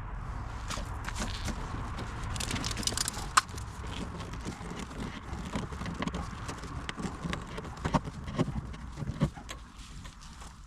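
Irregular clicks, knocks and rustling as an arrow is handled where it sticks in a steel car door, with one sharp click about three and a half seconds in.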